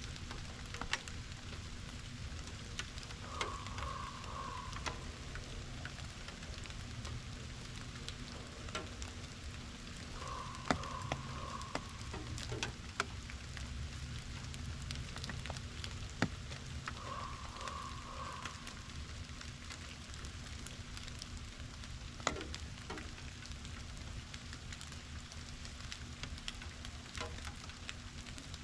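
Rain falling steadily, an even hiss of patter with many separate drops ticking sharply. A short, higher sound comes back about every six or seven seconds in the first part.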